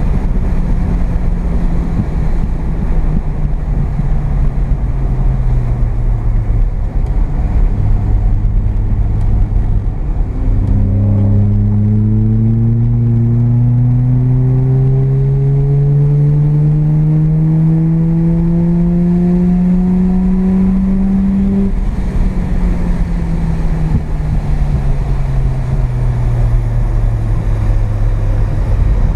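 Mazda RX-7 FB's carbureted 12A two-rotor rotary engine heard from inside the cabin on track. Revs fall for the first several seconds, then after about ten seconds the engine pulls hard with the revs rising steadily for some ten seconds. It then lifts off and the revs fall away again, over steady road noise.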